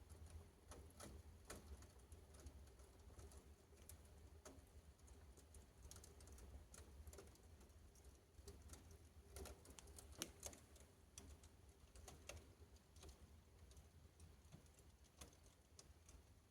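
Faint fire crackling in a fireplace as it burns through leather hot pants: scattered small irregular pops and ticks, with a few sharper ones around ten seconds in.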